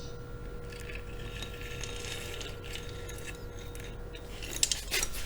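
Hands working on a motorcycle engine's metal parts: light scraping and small metallic clinks, with a sharper metallic clack near the end, as the dropped cam chain is fished back up into the engine.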